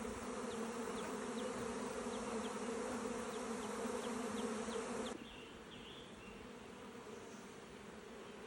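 Swarm of honeybees humming steadily around the hive entrance during an orientation flight. About five seconds in, the hum drops suddenly to a quieter level.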